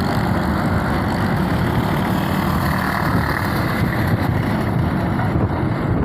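Truck engine running steadily at idle, an even low rumble.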